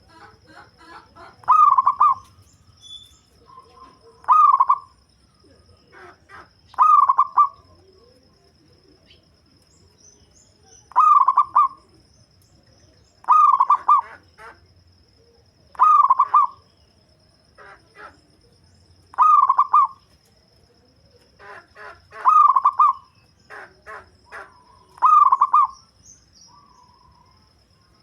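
Zebra dove cooing: a short, bubbling, staccato coo repeated nine times, one every two to three seconds, with softer clicking notes between the calls. The deep-voiced song is the kind used as a lure call for trapping wild doves.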